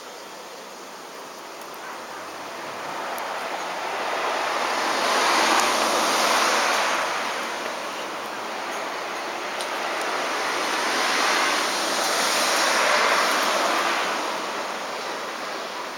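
Cicadas singing in a dense, hissing drone that swells twice and fades back between the swells.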